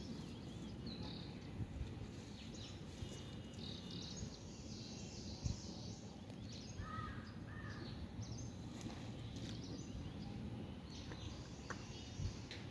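Outdoor background noise with a steady low rumble and scattered high bird chirps. Two short, lower calls come about seven seconds in, and a single short knock about five and a half seconds in.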